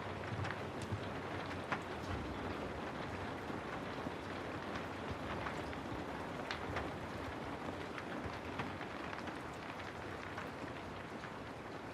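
Steady rain falling: an even hiss with scattered sharp drip ticks.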